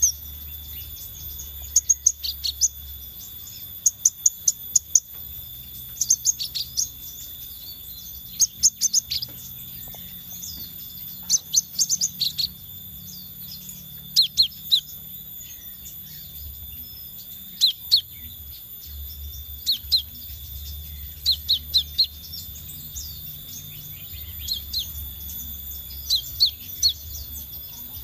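Scarlet minivet calling: short, sharp, high notes in quick clusters of three to five, a cluster every second or two. A steady thin high tone and a low hum run underneath.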